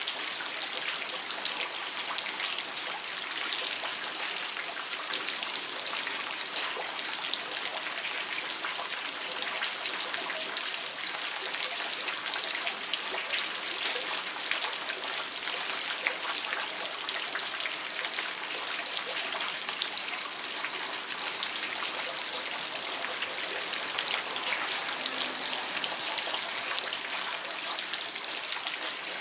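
Rain falling steadily at night, a dense even patter of drops.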